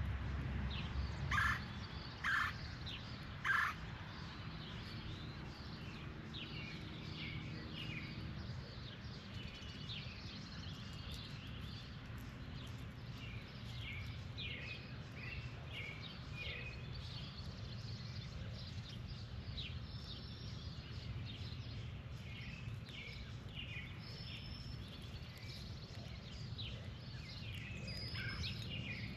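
Several birds calling and chirping outdoors, with three loud, sharp calls in the first four seconds, then many short chirps scattered through, over a steady low background rumble.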